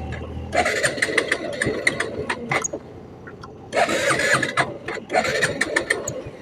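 Motorcycle engine being cranked on its electric starter in two long bursts without catching, a no-start that the rider puts down to overheating.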